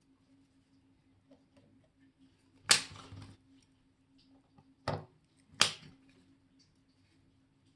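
Watchmaker's tools and small watch parts clicking and knocking on a workbench: three sharp taps, the first about three seconds in with a brief rattle after it, over a faint steady hum.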